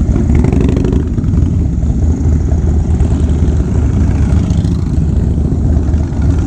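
Harley-Davidson Low Rider S's Twin Cam V-twin, fitted with S&S 585 cams and a Fab 28 aftermarket exhaust, running steadily with a loud, deep rumble.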